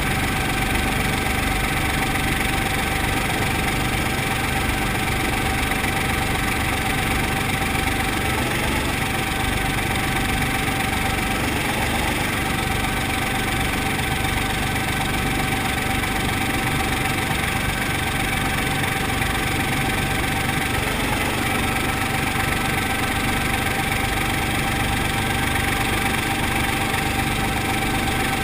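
Brantly B2B helicopter's piston engine and rotor running steadily, with a constant high whine above the engine drone.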